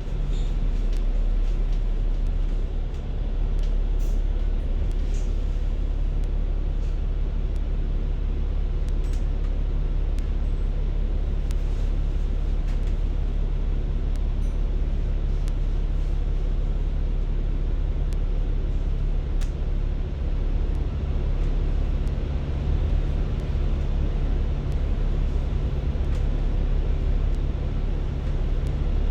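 Bus running, heard from inside the cabin: a steady low engine hum and road rumble with a few faint clicks and rattles.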